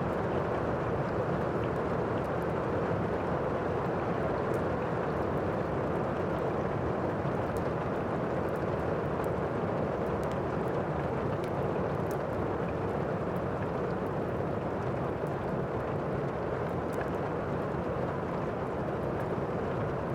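Thunderstorm and fireplace ambience: a steady rush of heavy rain and storm noise, with faint scattered crackles from a fire.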